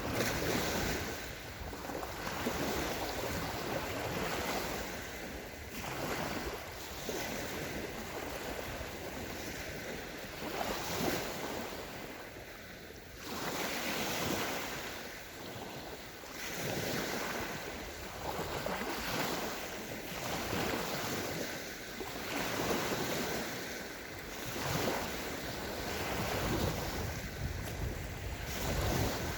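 Small sea waves breaking and washing onto a sandy beach, the surf swelling and easing every few seconds, with some wind.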